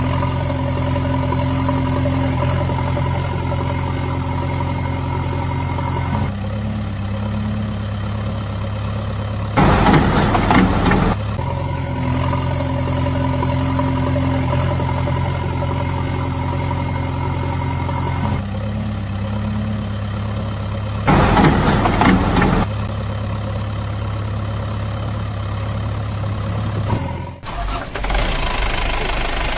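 Heavy diesel-type engine running steadily, its pitch shifting every few seconds, with a louder, rougher burst lasting about a second and a half twice, about a third and two thirds of the way through. The same pattern repeats about every 11 to 12 seconds, like a looped engine sound track, and the sound drops briefly and changes near the end.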